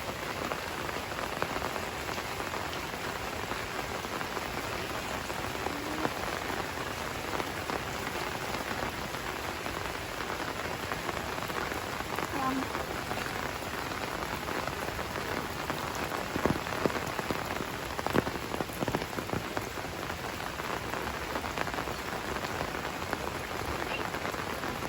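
Steady rain falling, an even hiss with a dense patter of drops. A few louder single drips stand out about two-thirds of the way in.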